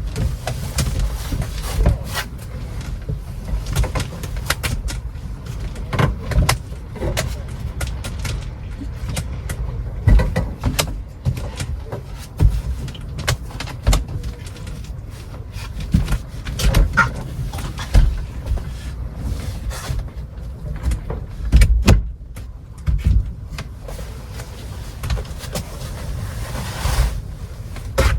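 Gale-force wind buffeting a kei-truck camper shell: a continuous low rumble with frequent knocks, thuds and rattles from the shell and truck body.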